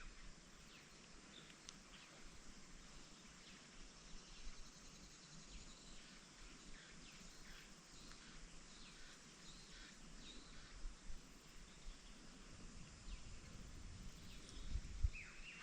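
Faint outdoor ambience with scattered short bird chirps over a quiet steady hiss, and a low rumble building near the end.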